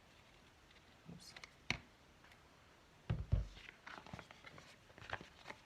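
Small handling noises on a work table: a sharp click, then two low thumps about three seconds in, followed by light taps and rustles.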